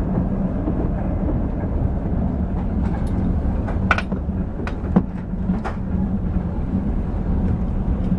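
Passenger train in motion, heard from inside the carriage: a steady low rumble of the wheels on the rails with a constant hum. A few short sharp clicks and clanks come in the middle.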